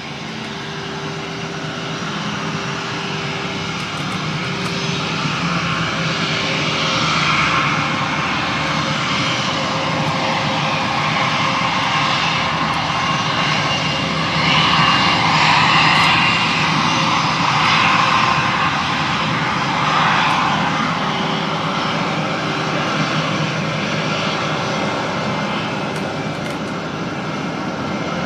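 Fixed-wing airliner's engines running, growing louder over the first half to a peak and then easing slightly, with a steady low hum under the roar.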